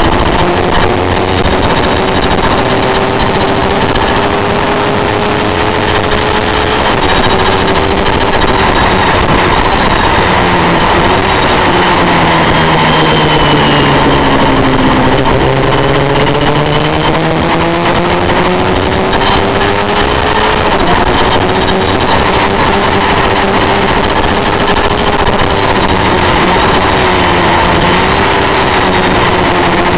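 Honda VFR400 race bike's V-four engine running hard at high revs, heard onboard with heavy wind rush. The pitch holds high with brief dips, about seven seconds in and again about twenty-one seconds in, then falls away through the middle as the bike slows and climbs again as it accelerates out.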